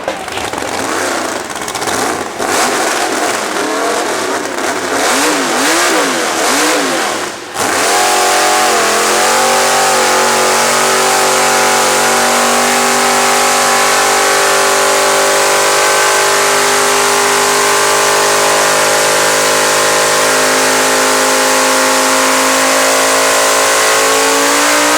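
Methanol-injected mega truck's 850 hp engine revving up and down in bursts. About eight seconds in it climbs to high revs and is held there steadily at full throttle, the pitch creeping slightly higher.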